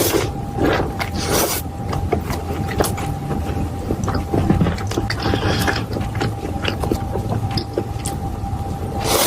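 Close-miked eating sounds: crunching and chewing of fried food, with scattered small clicks and a few louder crunches, over a steady low hum.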